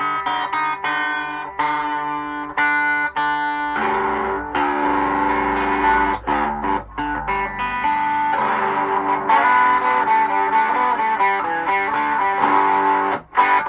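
Electric guitar through an effects unit with light distortion. For about the first four seconds single notes are plucked over and over while the top string is tuned down to D. After that the guitar, now in open G tuning, is strummed in ringing chords.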